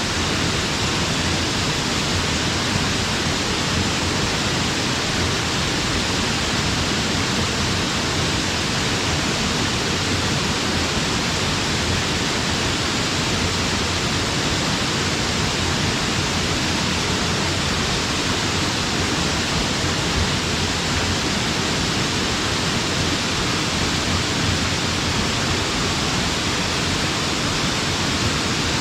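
Waterfall: a strong flow of water pouring down, heard as a steady, even rushing noise that stays the same throughout.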